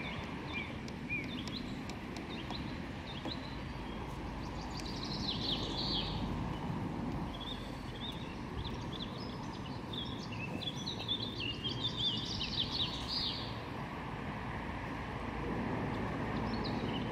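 Small birds chirping and singing in quick runs of short notes, busiest in two stretches through the middle, over steady low outdoor background noise.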